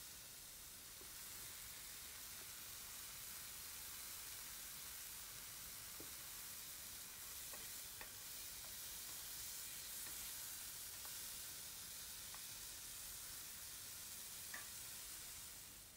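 Broccoli florets sautéing in a frying pan: a faint, steady sizzle with a few small ticks.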